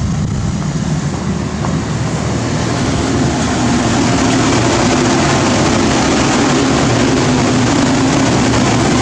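Steady whirring hum of equipment-room cooling fans and air handling. It rises in level over the first few seconds, then holds steady with a low droning tone under the rush of air.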